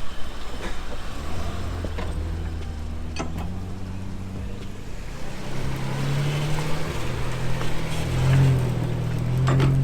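Honda Pilot SUV's engine running as it drives a dirt trail, its note growing louder and a little higher about halfway through. A few sharp knocks from bumps.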